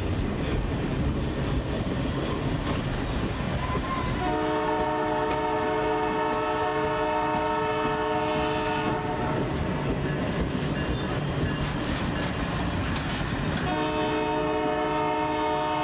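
Passenger cars of a passing train rumbling and clacking over the rails, with a locomotive's multi-chime air horn sounding a chord of several tones. There is one long blast of about five seconds starting about four seconds in, and a second blast that begins near the end.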